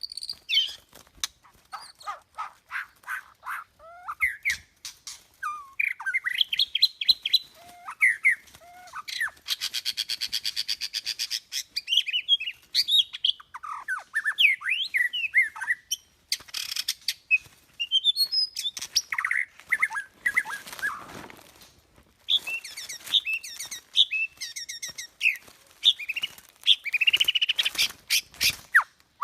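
White-rumped shama singing: a long, varied run of clear whistled phrases, sweeping notes and fast rattling trills, broken by short pauses.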